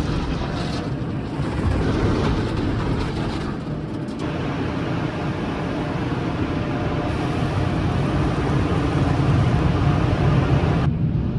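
High-pressure car wash spray blasting a car's bodywork and undercarriage to rinse off road salt, a loud steady hiss and rush broken by several edit cuts.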